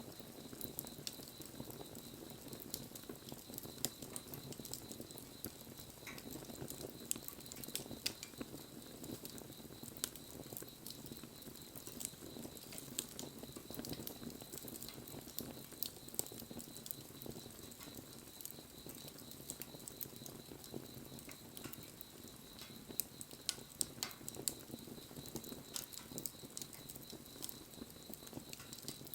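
Wood campfire burning quietly, with frequent small pops and snaps over a soft rushing of the flames and a faint steady high-pitched tone underneath.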